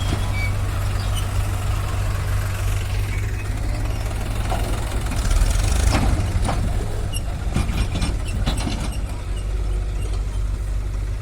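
Heavy diesel engine running steadily, with a cluster of knocks and clanks from about four and a half to nine seconds in, loudest around six seconds in.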